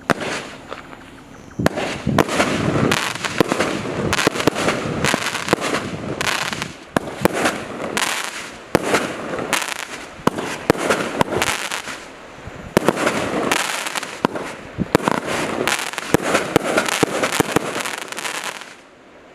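Consumer multi-shot firework cake from the Celtic 10 Pack firing a rapid string of shots and aerial bursts for about eighteen seconds, then stopping shortly before the end.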